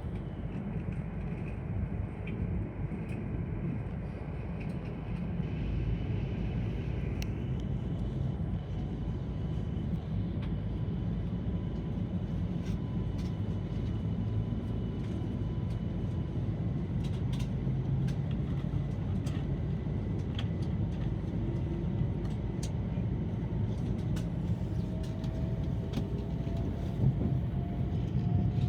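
Tohoku Shinkansen train running at speed, heard inside the passenger cabin: a steady low rumble with scattered faint clicks, and a faint whine slowly rising in pitch over the last few seconds.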